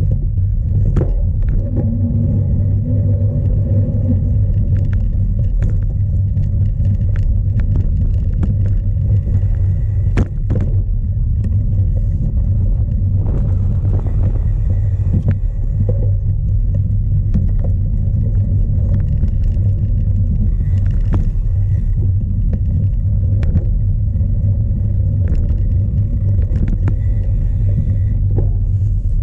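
Strong wind buffeting an onboard camera's microphone on a cyclocross bike, a loud steady low rumble, with scattered clicks and knocks from the bike rattling over rough ground.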